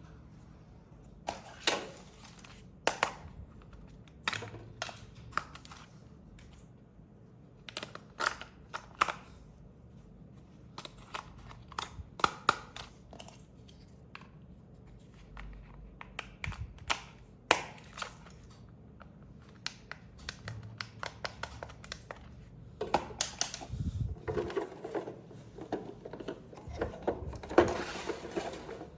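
Hands handling toy and packaging parts: irregular sharp clicks and taps of hard plastic, with a busier stretch of rustling and clicking near the end.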